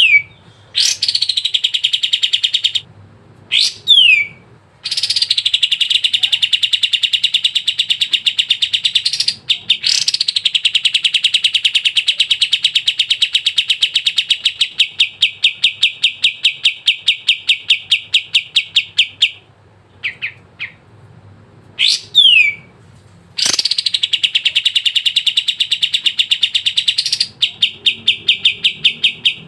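Kapas tembak singing loudly in a long rattling trill of rapid repeated notes, some runs lasting several seconds and slowing as they go, broken by short falling whistles.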